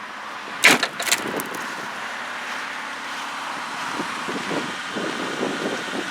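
A 2008 Ford Escape's 3.0-litre V6 idling steadily after a cold start, with two sharp clicks close together about a second in.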